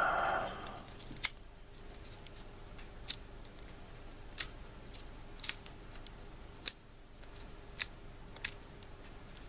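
About eight small, sharp clicks at an uneven pace of roughly one a second, from hands working tools and small parts at a hobby bench. A faint steady hum lies underneath.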